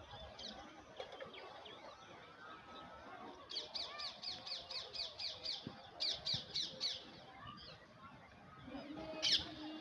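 Bird calls: a rapid series of about nine high chirps, roughly four a second, then a shorter series of four. One louder high note comes near the end.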